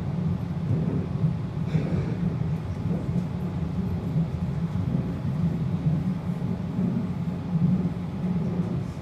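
Sydney suburban electric train running, a steady low rumble with faint clicks heard from inside the carriage.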